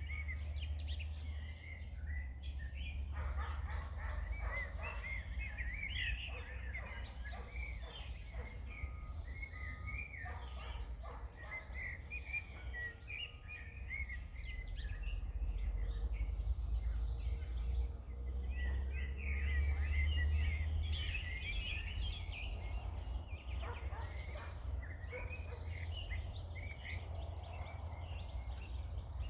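Several songbirds singing and chirping, with bursts of busier chattering, over a steady low rumble.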